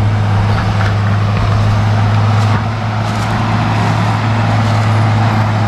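Diesel engine of a Case 850K crawler bulldozer running steadily with a constant low hum.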